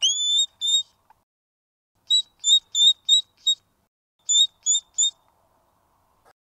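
Hedgehog squeaking: high-pitched chirping squeaks, the first two longer and rising, then a quick run of five short squeaks and, after a pause, three more.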